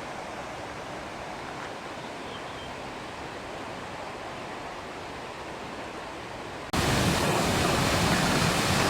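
Steady rush of falling water from the Svartifoss waterfall. About seven seconds in it cuts abruptly to a louder, fuller rush.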